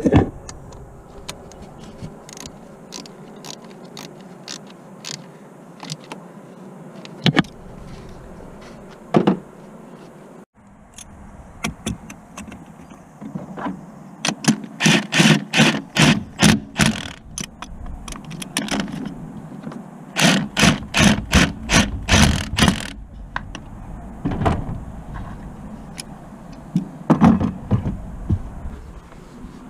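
Hand-tool work on a car: scattered metallic clicks and knocks, with two runs of rapid clicking at about five a second partway through.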